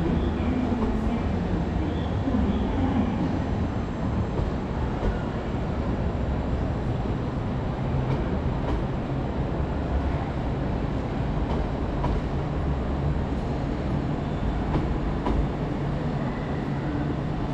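A passenger train running, a steady low rumble with occasional faint clicks.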